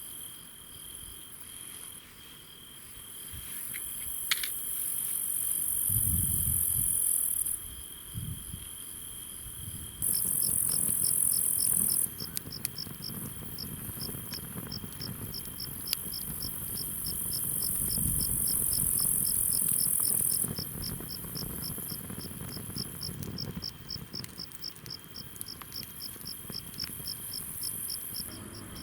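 Chorus of chirping insects: a continuous high-pitched chirring with a steady thin tone under it, joined about a third of the way in by an even, repeating chirp at two or three a second.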